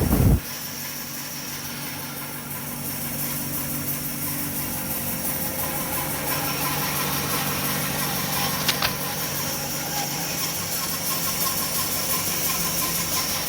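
Power saw running steadily while cutting Brazilian purpleheart wood. A loud thump comes right at the start and a sharp click about nine seconds in.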